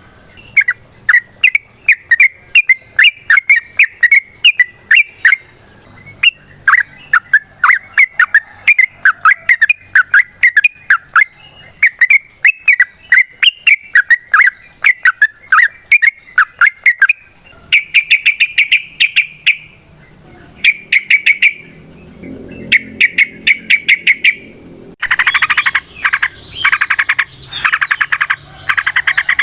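Yellow-vented bulbul (trucukan) singing: quick, repeated chirping notes several times a second, then rapid trilled bursts in its 'ropel' song. Near the end, a louder, harsh, fast-pulsing call takes over.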